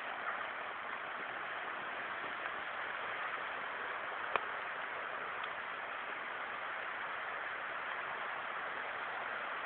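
Steady rushing of flowing water, with a single sharp click about four seconds in.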